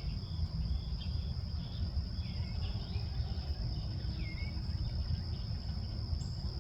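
A steady, high-pitched insect drone, like crickets, with short bird chirps scattered through it over a low rumble.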